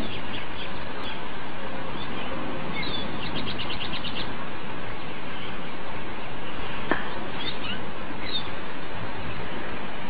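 A small bird chirping: a quick run of about eight short high notes about three seconds in, then a few single calls near the end, over a steady rushing noise.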